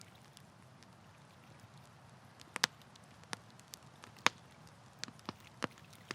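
Wood campfire crackling: a low steady hiss, then from about halfway in a run of sharp, irregular pops, one noticeably louder than the others.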